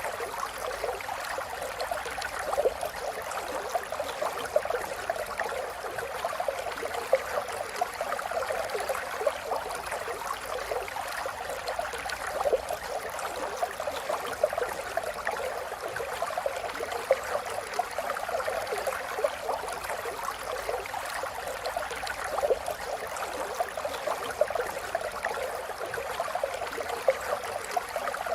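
River water flowing steadily over stones, a continuous rush with constant small splashes and gurgles.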